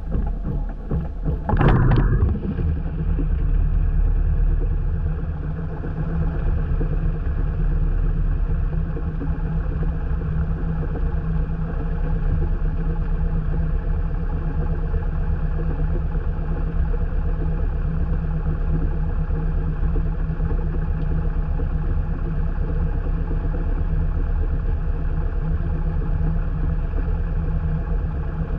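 Light airplane's piston engine cranking on the starter and catching about two seconds in, then running steadily. The engine is loaded up with fuel, so it starts rough and short of power.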